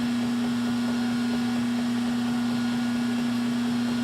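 Metal lathe running with a steady motor hum, one strong low tone at an even level throughout.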